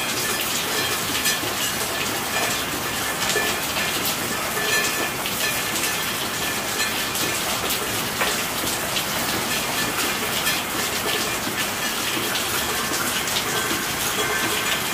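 Steady rainfall, with many single drops ticking on a surface through an even wash of noise.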